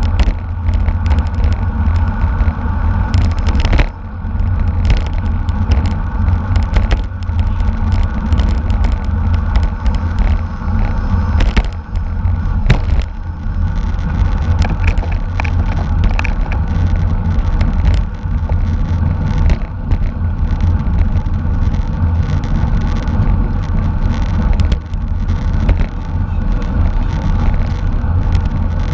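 Wind buffeting the microphone of a road bicycle moving at race speed: a loud, steady low rumble with scattered short clicks.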